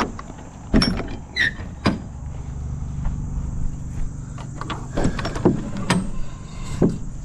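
An engine running steadily at a low idle, with several sharp clanks and a brief high squeal about a second and a half in.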